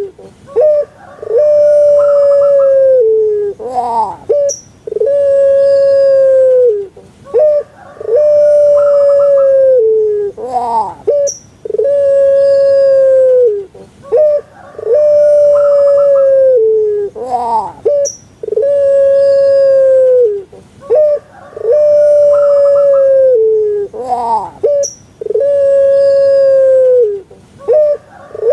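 Puter pelung (Streptopelia risoria), a long-cooing dove, calling over and over. Each call is a long, drawn-out coo held on one pitch that dips at its end, followed by a few short notes and a rising note. The call repeats about every three and a half seconds.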